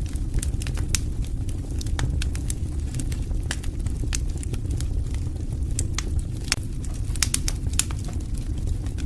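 Wood fire crackling and popping: irregular sharp snaps over a steady low rumble of burning.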